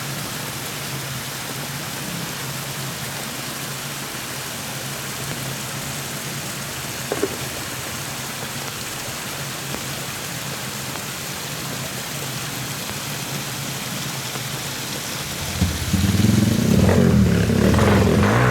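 Heavy rain pouring down as a steady dense hiss over a faint low hum, with a short knock about seven seconds in. Near the end a much louder low, pitched sound comes in and takes over.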